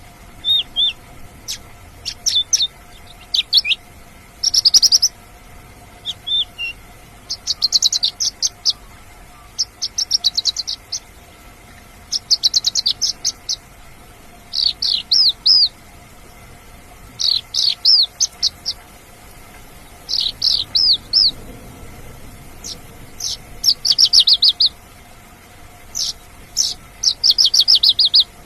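Horsfield's bush lark (branjangan) singing: about a dozen short bursts of rapid, high chirps, each around a second long, repeated every couple of seconds with brief pauses between.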